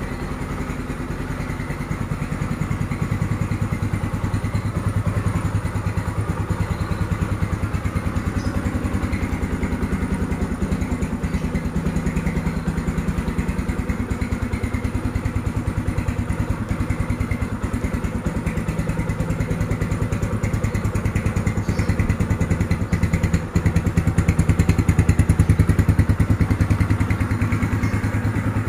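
Yamaha Scorpio Z's single-cylinder four-stroke engine idling steadily, getting a little louder about two thirds of the way through.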